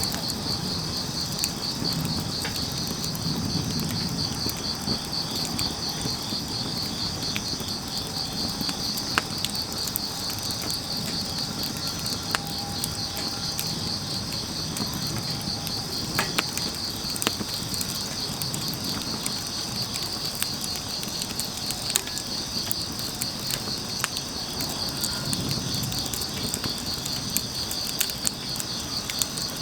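Crickets chirping in a steady, fast pulsing trill, over a wood fire crackling with scattered sharp pops and a low rumble of burning logs.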